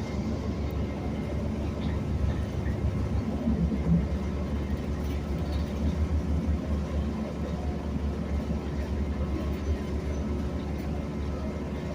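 City bus running along the road, heard from inside the cabin: a steady low engine and road rumble.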